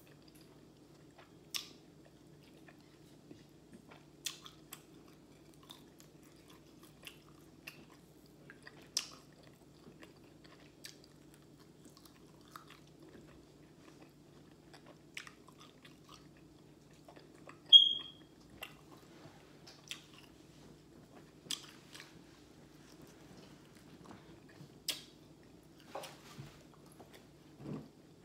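Close-up chewing and biting of fried chicken: soft, wet mouth sounds with short crisp clicks every second or two, over a faint steady hum. About two thirds of the way in there is one sharp, ringing clink, the loudest sound.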